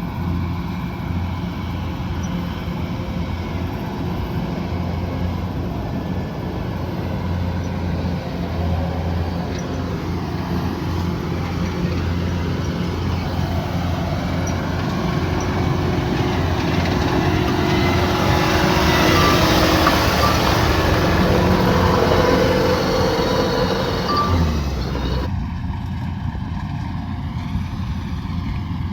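Kubota DC108X combine harvester running steadily with a deep engine hum and machinery clatter, growing louder and noisier after the middle. Near the end the engine note drops and the noise falls away abruptly.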